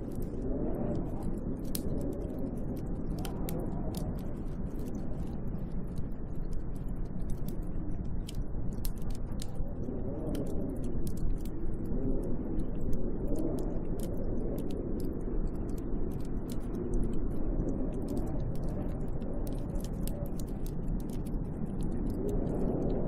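Snowstorm wind blowing in slow gusts that rise and fall, with scattered light ticks throughout.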